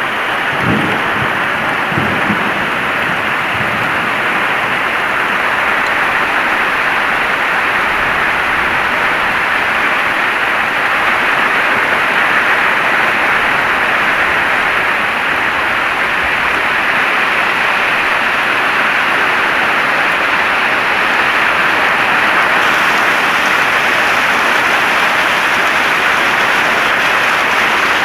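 Heavy rain falling steadily in a dense, even hiss. A few low thumps come in the first two seconds.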